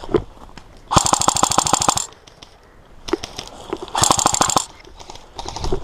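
Airsoft electric gun firing full-auto: a burst of rapid, evenly spaced shots lasting about a second, then a shorter burst of about half a second.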